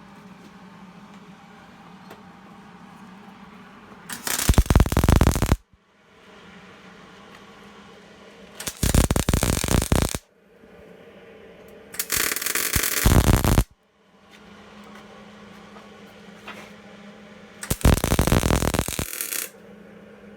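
Electric welding arc crackling in four short bursts of about a second and a half each, each cutting off sharply as the trigger is released. A steady low hum runs between the bursts.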